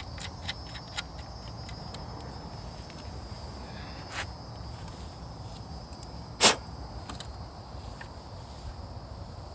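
Steady high-pitched insect chirring, like crickets, with a few light clicks and one sharp knock about six and a half seconds in, from hand tools working on the jet pump's mounting nuts.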